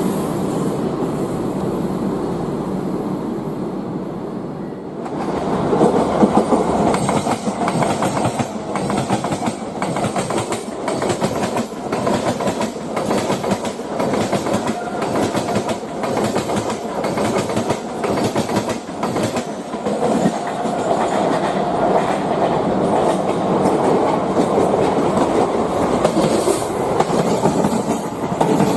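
A passenger train passing close by, its wheels clattering rapidly over the rail joints. A steady rumble gives way to the loud clatter about five seconds in, and the clatter runs on.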